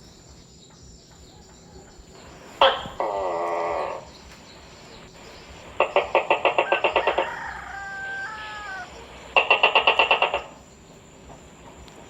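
Gecko calls: a buzzy call about a third of the way in, then two bursts of rapid chattering at about nine pulses a second, with a short falling whistle-like call between them.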